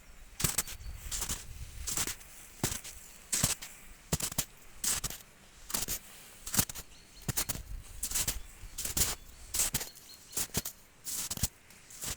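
Footsteps of someone walking steadily, about one step every three quarters of a second, each a short crunch. A low rumble sits under the steps and fades out near the end.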